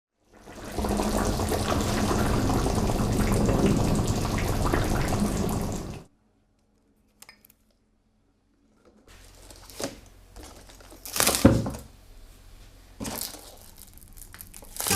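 Steady rush of running water, like a tap running, for about five seconds, then cutting off abruptly. After a pause come a few scattered knocks and clatters, the loudest about eleven seconds in.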